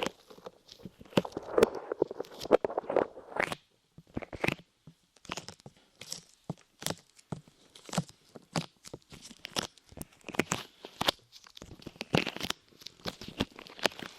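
Light clay pressed onto and pulled away from microphone ears, making irregular sticky crackles and pops, several a second.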